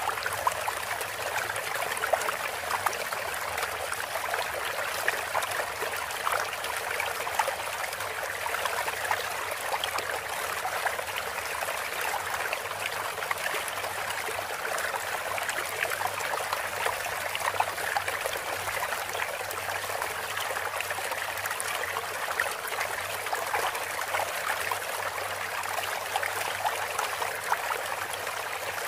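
Steadily running, trickling water, like a small stream, with many tiny splashes and no birdsong.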